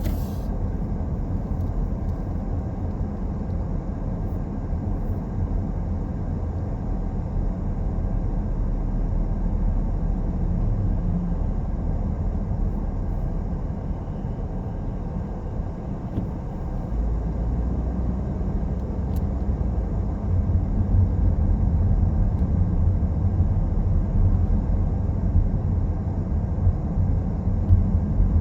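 A car driving along a road: a steady low rumble of engine and tyre noise, growing a little louder and deeper in the last third.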